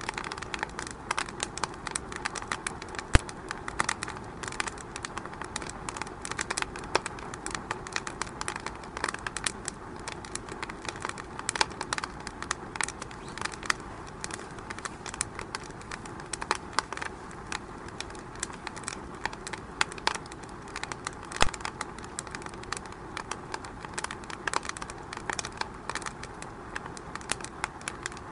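Wood fire in a fireplace crackling, with many irregular snaps over a steady low hiss and a couple of sharper, louder pops.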